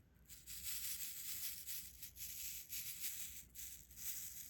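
Diamond art drills, small plastic resin beads, rattling and sliding together in a plastic drill tray, in a continuous, wavering rattle.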